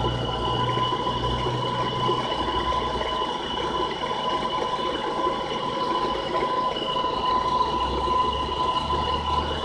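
Homemade PVC water pump driven by a washing-machine motor, running steadily with a constant whine over a rushing hiss. A low hum fades about two seconds in and comes back near the end.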